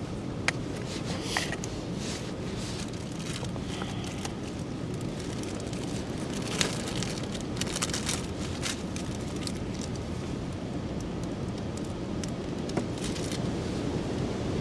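Steady rushing of wind and a camp stove burner, with scattered sharp crackles and ticks as the pan heats on the stove.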